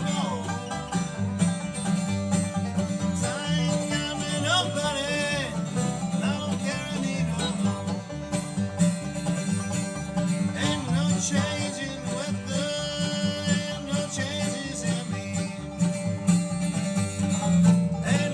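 Bluegrass band playing a song live on plucked string instruments, with a steady bass pulse and wavering melody lines.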